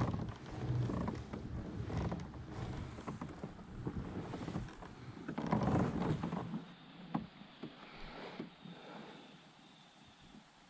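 Knocks and rustling aboard a pedal kayak on the water, with wind on the microphone, louder a little past the middle and quieter near the end.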